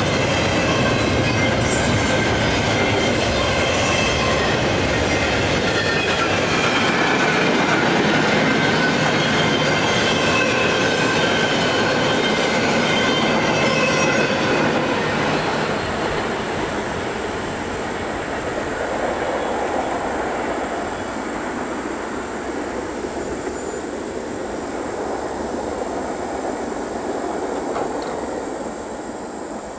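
Double-stack container well cars of a freight train rolling over the crossing, with wheel squeal and clickety-clack. The last car clears about halfway through; the rumble then fades and a steady high-pitched tone remains.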